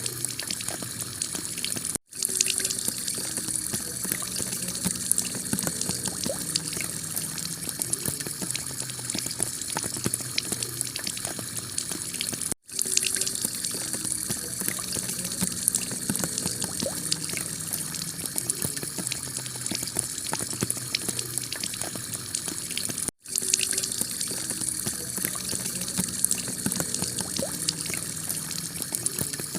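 Heavy rain falling on a clay tile roof: a steady dense hiss of many drops. It breaks off for a split second three times, about ten seconds apart.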